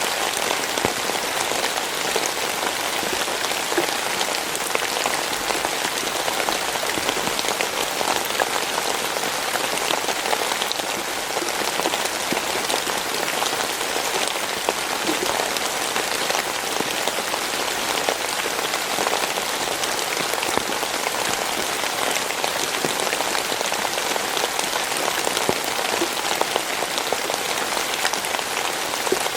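Steady rain falling, the patter of countless drops hitting a surface.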